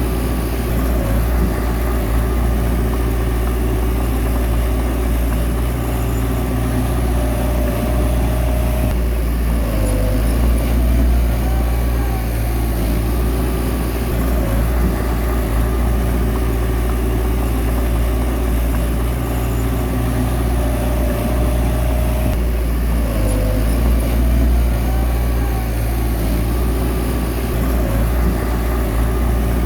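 Bulldozer's heavy diesel engine running steadily, its note shifting a couple of times as the load changes.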